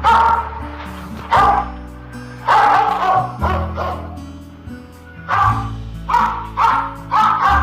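A dog barking in short groups, about eight barks, over background music with sustained low notes.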